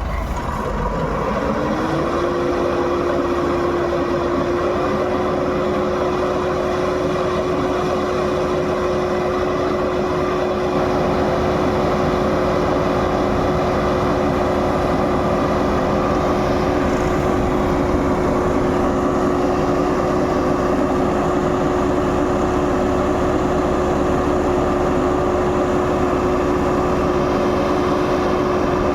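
Heavy diesel engine of a tractor or combine harvester in mud revving up about a second in, then held at high revs with a steady drone.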